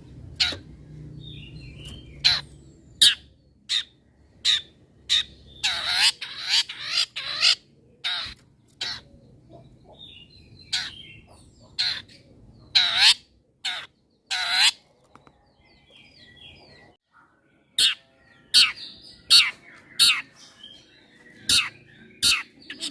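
Long-tailed shrike (cendet) calling: a string of short, harsh, sharp calls at irregular intervals, with a cluster of longer rasping calls about six seconds in and again around thirteen to fifteen seconds, and softer chirps in between.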